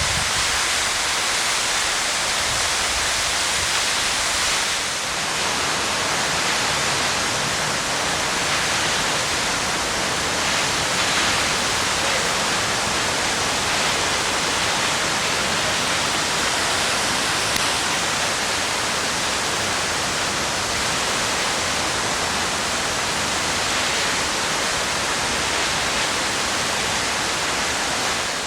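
A large waterfall falling down a tall cliff: a steady, unbroken rush of water.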